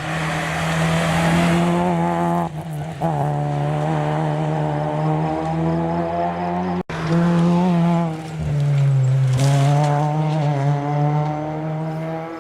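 Rally car engine revving hard, its pitch climbing and dropping back at each gear change, with a sudden break about seven seconds in before it revs up again.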